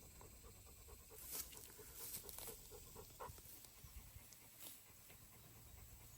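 A dog panting faintly in quick, short breaths, clearest in the first half.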